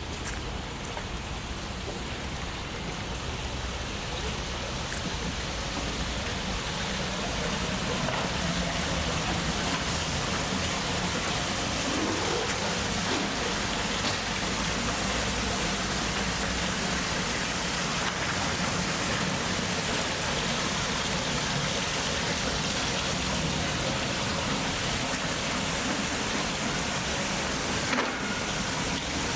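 Steady rain falling and pattering on surfaces, a hiss that grows louder over the first several seconds and then holds steady.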